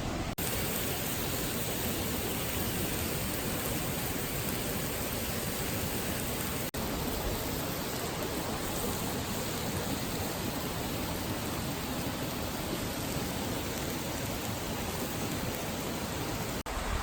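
Steady rushing of flowing water, like a stream, even and without distinct clicks or crackles. It drops out for an instant three times: just after the start, about seven seconds in, and near the end.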